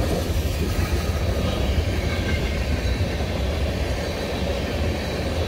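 Freight train of tank cars and covered hopper cars rolling past at speed: a steady, low rumble of steel wheels on rail.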